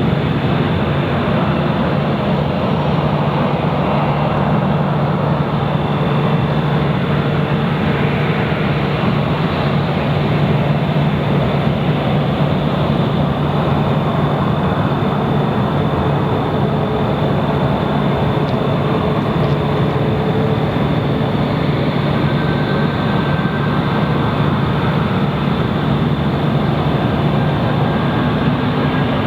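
Jet engines of a Boeing 737 running at takeoff power: a loud, steady rumble with a thin high whine held over it.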